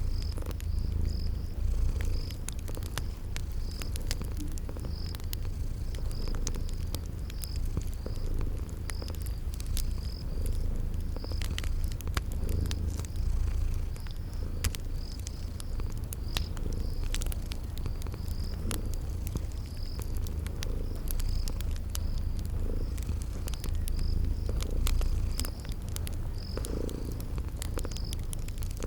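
A cat purring steadily in a low, continuous rumble, mixed with the irregular snaps of a crackling wood fire and a cricket chirping at an even pace about once a second.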